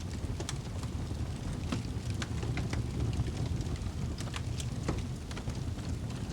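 Wood fire burning in a fireplace: a steady low rush of flames with frequent sharp crackles and pops at irregular intervals.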